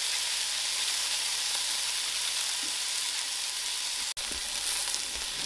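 Beef burger patties and toasting buns sizzling steadily in hot oil in a flat black pan. The sound cuts out for an instant about four seconds in.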